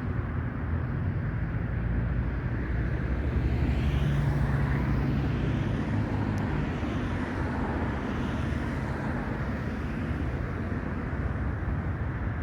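Light propeller airplane's engine droning as it passes, loudest about four seconds in, then easing off a little.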